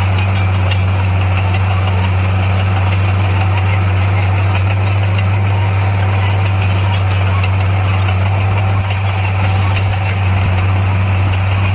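Diesel engine of a heavy construction machine running steadily at constant speed, a loud, low, even drone. There is a brief dip in level about nine seconds in.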